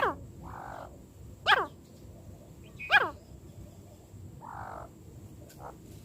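Francolin calling: three loud, short calls about a second and a half apart, each sliding down in pitch, with two softer raspy sounds between them.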